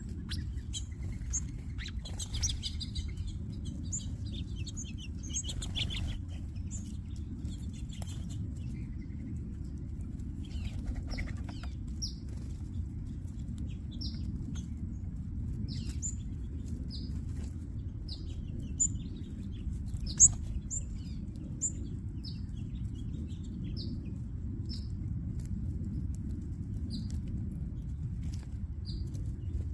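Small songbirds chirping: a busy mix of short high chirps at first, then a single repeated chirp about every second or two, over a steady low rumble. A sharp click comes about two-thirds of the way through.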